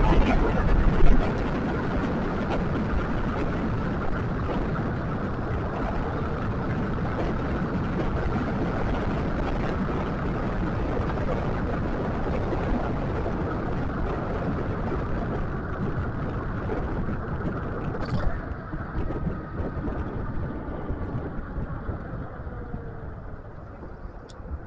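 Wind rushing over the microphone and road noise while riding an electric scooter, with a brief thump about a second in. The noise fades over the last few seconds, where a faint motor whine glides in pitch.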